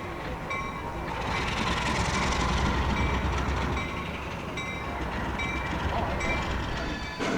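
Train rolling past with a low rumble that swells about one to three seconds in. A short ringing tone repeats evenly about every two-thirds of a second.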